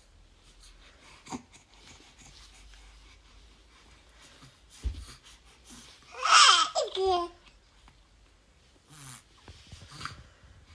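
Three-month-old baby cooing: one loud coo of about a second, about six seconds in, its pitch sliding downward, with a few faint small vocal sounds around it. A short low thump comes a second before the coo.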